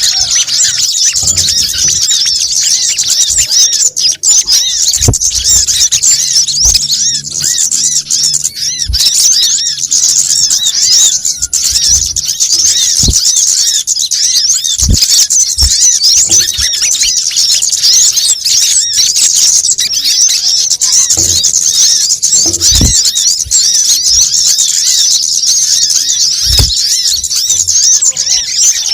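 Dense, rapid, overlapping high-pitched twittering of small birds, a looped bird-lure call for sunbirds and similar small songbirds. Occasional low thumps break through.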